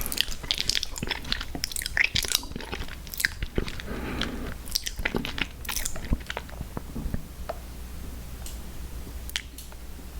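Close-miked eating sounds: a person biting and chewing snack cakes, a quick run of mouth clicks that thins out to a few isolated ones near the end.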